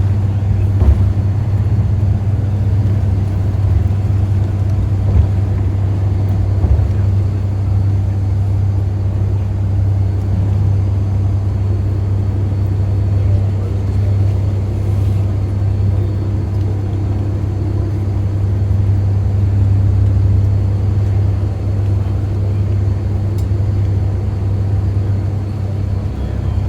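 Tour trolley bus engine running with a steady low drone while the bus drives along.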